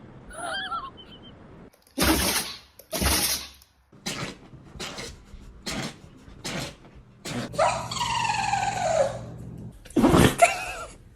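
A dog sneezing over and over: two strong sneezes, then a run of shorter sneezes or snorts about two a second, a long moan falling in pitch, and one more strong sneeze near the end.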